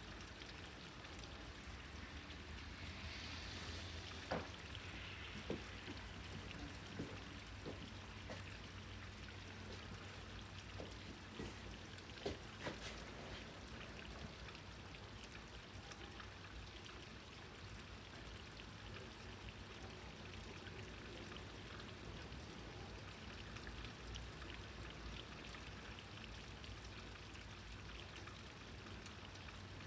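Steady rain falling, with louder drips and raindrop taps now and then, several of them between about four and thirteen seconds in.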